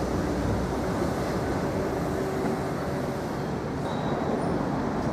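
South West Trains electric multiple-unit train running at the platform: a steady rumble with a low hum that fades about two seconds in.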